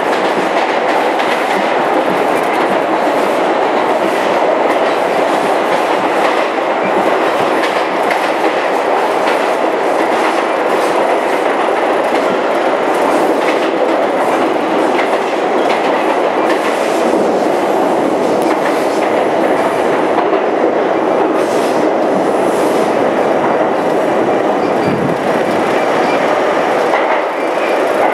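R32 New York City subway car running steadily on the rails, heard from inside the car: a continuous rumble with irregular clicks from the wheels over rail joints.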